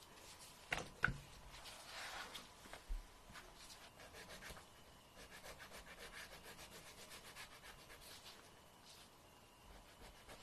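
A fingernail being filed in quick, short rasping strokes, faint and close up. There are a couple of sharp clicks about a second in.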